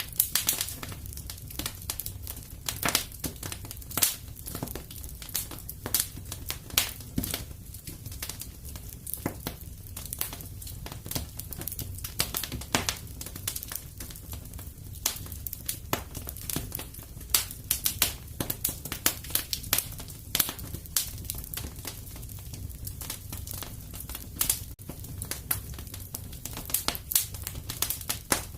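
Fireplace fire crackling: irregular snaps and pops over a steady low rumble.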